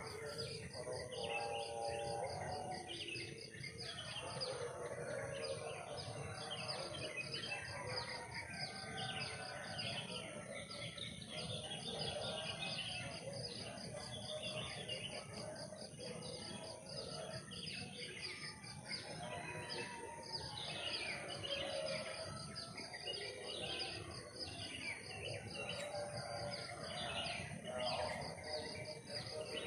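Many birds chirping and calling at once, over a steady high-pitched insect drone.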